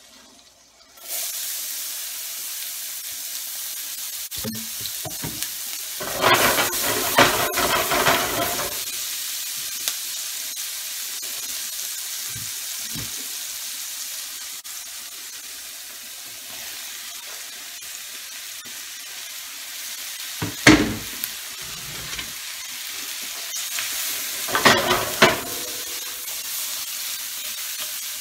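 Sliced pheasant back (dryad's saddle) mushrooms going into hot butter and oil in a stainless steel skillet and sizzling steadily, the sizzle starting about a second in. A few louder bursts break in over the sizzle.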